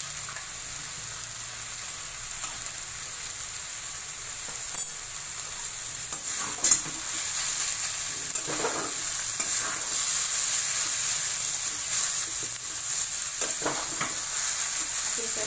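Noodles sizzling in hot oil in a kadai, tossed and stirred with a steel spatula. A steady high hiss, with a few sharp clicks of the spatula against the pan about five seconds in and again near seven, after which the sizzle gets a little louder.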